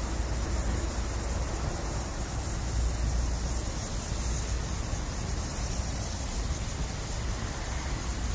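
Bamboo campfire burning with a steady hiss over a low rumble, with no distinct pops.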